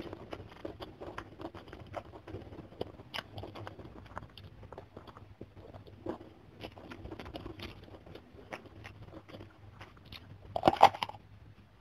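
Close-miked eating sounds: steady chewing of a mouthful of rice with crisp fried anchovies and petai beans, with many small wet clicks and crunches. About a second before the end comes a louder crunching bite into a raw young green eggplant.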